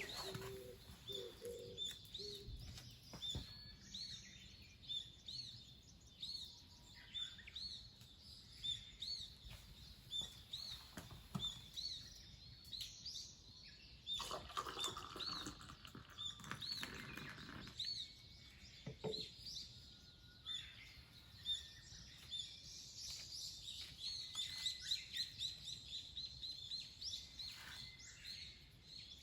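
Small birds chirping outdoors: a short high call repeated about once a second, with a quicker run of chirps near the end. A brief rustling noise comes in the middle.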